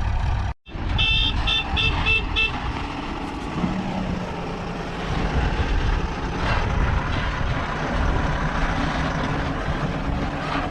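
Diesel engine of a JCB 3DX backhoe loader running steadily under work, with a run of short high beeps, about three a second, between one and two and a half seconds in.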